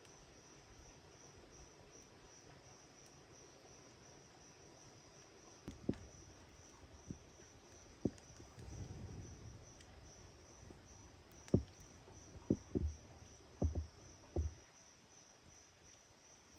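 Insects chirring steadily in a high, evenly pulsing trill, with a string of short knocks and thuds in the second half that stand out above it.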